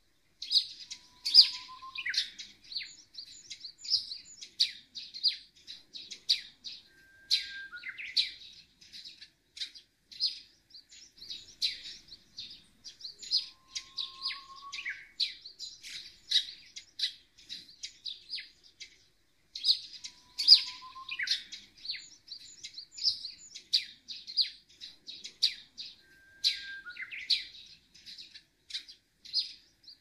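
Small birds chirping and twittering in quick, high notes throughout, with an occasional short, lower whistle.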